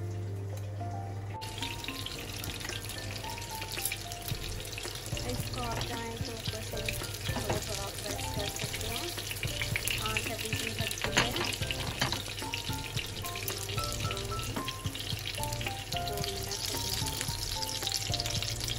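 Chicken chapli kababs sizzling as they shallow-fry in oil in a small non-stick pan, starting about a second in, with scattered clicks and scrapes of a spatula and tongs against the pan as they are turned. Background music plays throughout, over a low steady hum before the frying begins.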